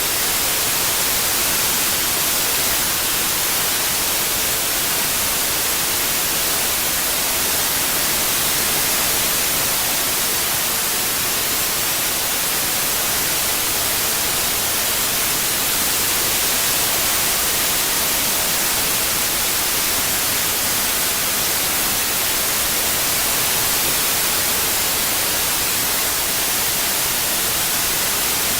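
Steady synthetic white noise: an even, unbroken hiss across the whole range, brightest in the highs.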